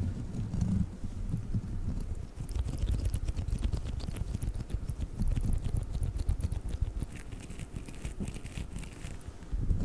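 Sticky crawler toy being pressed and pulled on the microphone: a dense sticky crackling of fine clicks over low handling noise.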